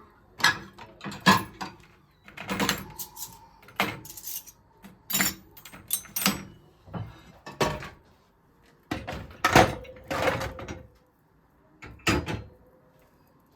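Kitchenware being handled: a dozen or so irregular knocks and clinks, two of them ringing on for a moment like struck dishes.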